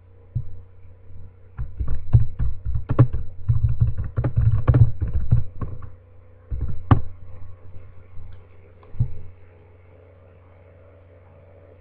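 Close-miked chewing of a Kit Kat Chunky Caramel chocolate wafer bar: irregular crunches and soft thuds that die away about nine seconds in, over a steady low hum.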